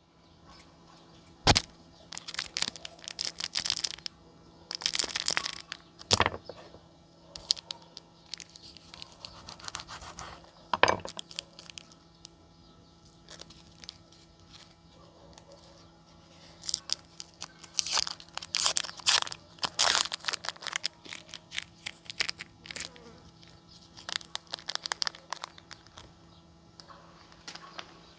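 A small knife cutting a KitKat's chocolate-coated wafer into small pieces. Sharp cracks come as the bar snaps, with bursts of crisp crunching and crumbling between them, at an irregular pace.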